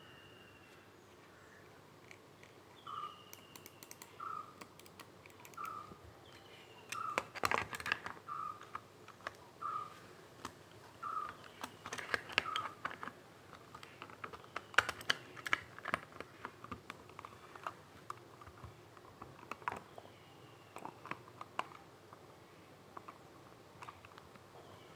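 Irregular runs of quick clicks of computer keys or buttons being pressed, busiest in the middle. A bird calls alongside: short notes repeated about every second and a half, and a few falling chirps.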